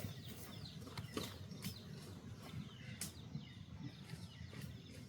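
Small birds chirping, many short calls falling in pitch, with a few sharp knocks and a low rumble underneath.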